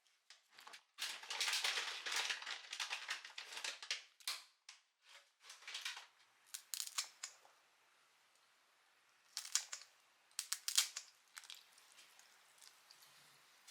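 Kitchen handling noises: bursts of rustling and crinkling with a few sharp clicks, loudest about a second in and again around the tenth second.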